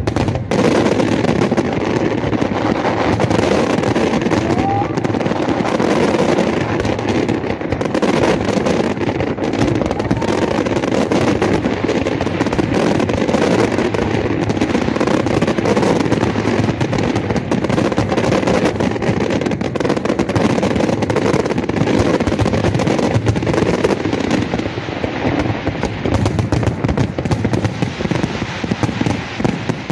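Fireworks display going off continuously: a dense barrage of bangs and crackling with no break.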